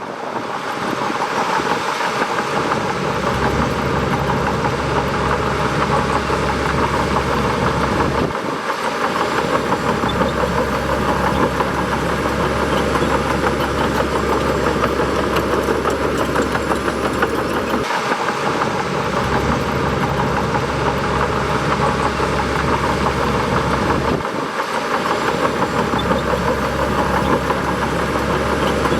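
Bulldozer's diesel engine running steadily, with a steady high whine over its low rumble. The rumble dips briefly three times.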